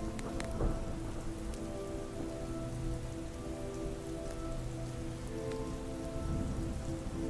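Soft steady rain mixed with ambient music of slow, long-held chords, with a few sharp campfire crackles scattered through it.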